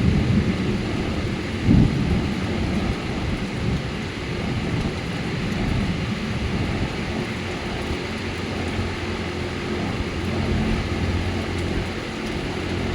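Thunderstorm: steady rain hissing, with thunder rumbling low underneath and swelling briefly about two seconds in.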